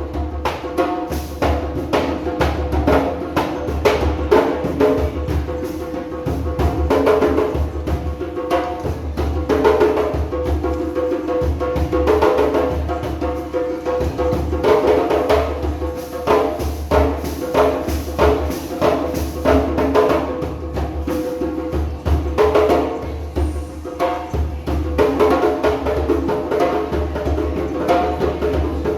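Several djembe hand drums played together in a fast, continuous rhythm, with deep bass strokes under sharp slaps.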